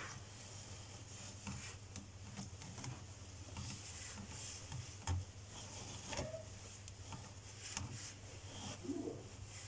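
Light clicks and taps of kitchen items being handled, with one louder knock about five seconds in, over a steady low hum.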